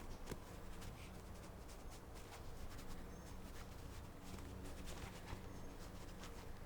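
Light, scattered taps and scratches from a tiny Shih Tzu puppy playing, over a low steady hum.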